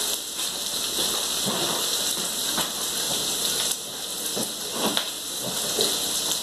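Brussels sprouts and onions sizzling in a hot frying pan: a steady hiss with scattered small pops and crackles.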